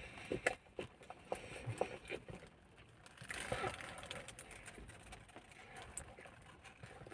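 Faint chewing of a chicken burger with scattered small mouth clicks, and a fresh bite taken into the bun about three to four seconds in.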